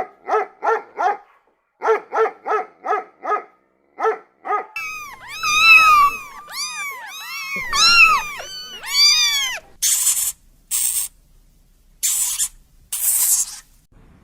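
A dog barking in quick runs of four or five barks. Then comes a string of high, arching cries that rise and fall, and near the end four short hissing bursts.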